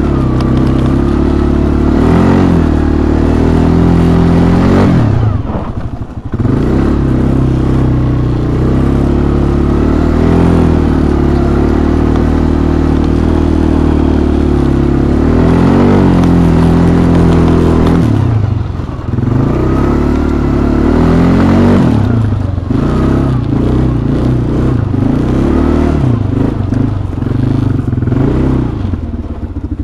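2007 Arctic Cat 250cc ATV engine running under light throttle on a ride through snow, its pitch rising and falling with speed. Twice, about six seconds in and again near nineteen seconds, the engine note falls away briefly as the throttle is let off, then picks back up.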